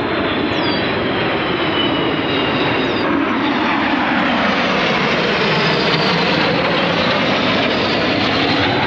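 An airplane flying past low overhead: loud, steady engine noise with a slow sweep in pitch as it passes.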